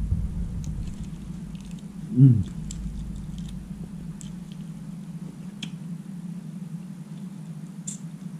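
A man chewing roasted seal flipper, with small wet mouth clicks and smacks scattered through, and a short hum from his voice about two seconds in. A steady low hum runs underneath.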